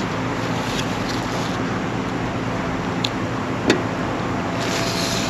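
Cab interior of a 1966 Ford F-250 under way: steady engine and road noise, with two short sharp clicks about three seconds in and again half a second later.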